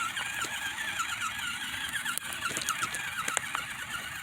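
Small electric motor of a 1/24-scale RC crawler truck whining as it drives over rocks, the pitch wavering up and down with the throttle, with a few short clicks. The motor is extremely loud.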